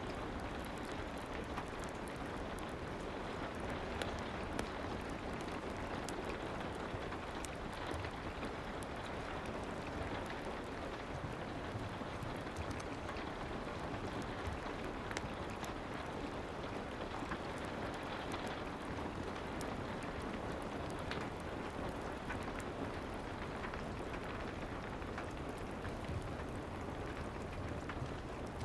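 Steady soft rain ambience, an even hiss with faint scattered ticks and crackles from a fireplace mixed in.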